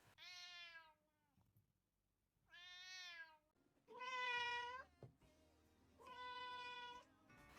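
Cat meowing four times, each meow about a second long with short pauses between.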